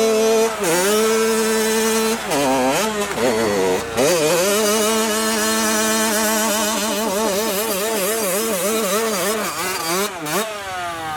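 Honda CR80's single-cylinder two-stroke engine held at high revs, its pitch wavering up and down about twice a second, with brief drops in revs in the first few seconds and near the end.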